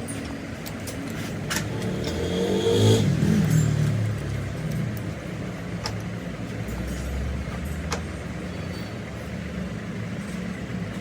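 Car engine running, revved up once about two to three seconds in, then dropping back to a steady idle.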